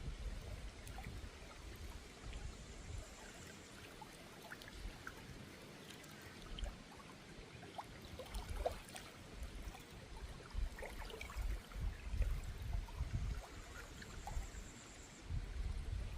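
Small river stream running and trickling over rocks, with low rumbling bumps now and then that are loudest near the end.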